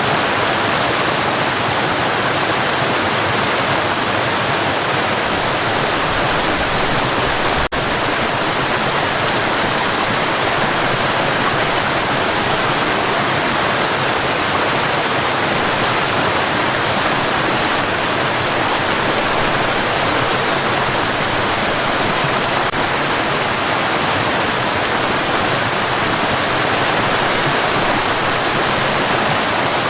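Steady white noise: an even, unbroken hiss with no rhythm or change, apart from a split-second dip about eight seconds in.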